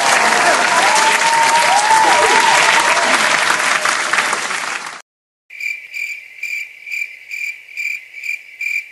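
Stock sound effect of a crowd applauding and cheering, which cuts off suddenly about five seconds in. After a brief silence comes the stock crickets effect: high, even cricket chirps about twice a second.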